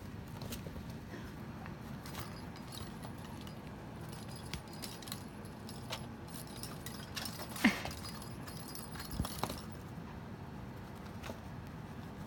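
Scattered light clicks and jingling as a kitten bats an object around, with one sharper knock a little over halfway through.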